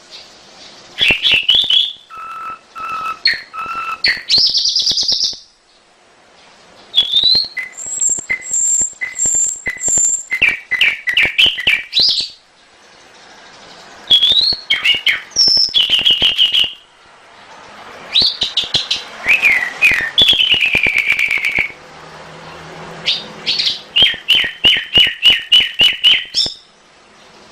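Domestic canary singing: varied phrases of rapid trills, whistled glides and fast runs of repeated chirps, with short pauses between phrases.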